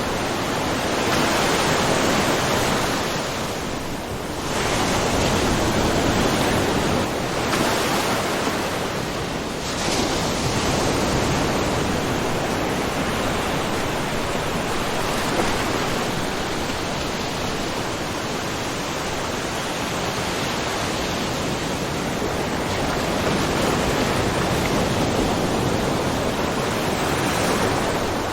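Small ocean waves lapping and splashing on a shore in a steady wash of water noise that swells and eases every few seconds.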